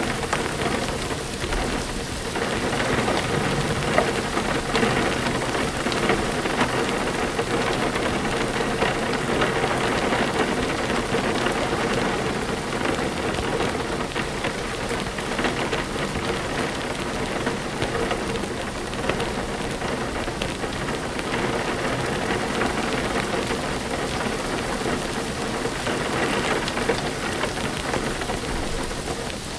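Steady rain falling, with thunder low in the background.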